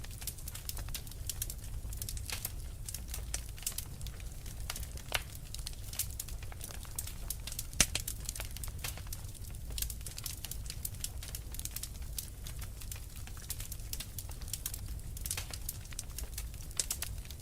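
Wood fire crackling, with frequent small sharp pops and one louder pop about eight seconds in, over a low steady rumble of the flames.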